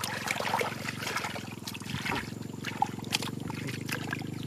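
Water trickling and splashing in short bursts, over a steady low hum.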